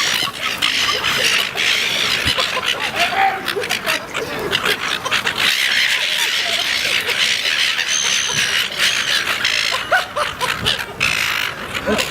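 A flock of seagulls in a feeding frenzy: dense, overlapping squawks and calls with many short clicks and knocks mixed in.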